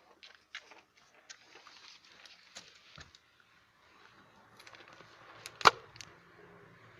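Homemade PCP air rifle handled with small clicks and knocks, then firing a single sharp shot about five and a half seconds in, with a lighter click just before and after it.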